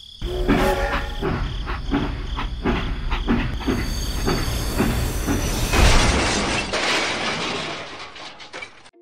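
Train wheels clacking over the track in a steady rhythm of about three clacks a second. The sound builds to its loudest about six seconds in, then fades away near the end.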